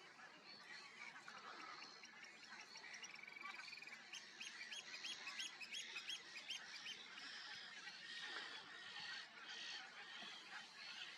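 Pied avocets calling among a faint chorus of other wetland birds: about two-thirds of the way through, a run of about eight clear, repeated notes, roughly three a second.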